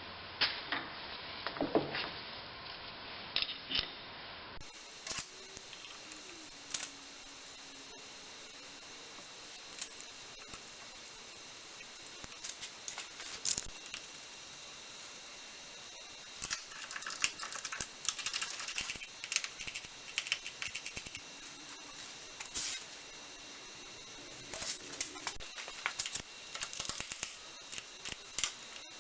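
Scattered metallic clicks, clinks and light knocks of tools and quick-change gearbox parts being handled and fitted back together by hand. The sounds come in irregular single taps with busier spells of handling about halfway through and again near the end.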